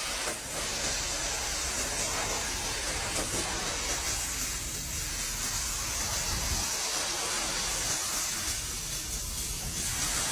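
Steady rushing wind noise with a low rumble underneath, hissing most in the high range, the kind heard in strong storm wind such as a tornado.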